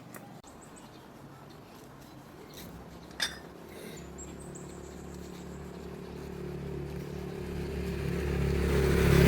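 A motor vehicle's engine running and drawing nearer, growing steadily louder over the last five seconds. A single sharp click sounds about three seconds in.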